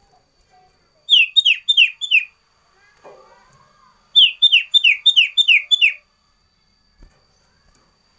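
A caged sirtu songbird singing two quick runs of sharp, falling whistled notes, first four and then six in a row.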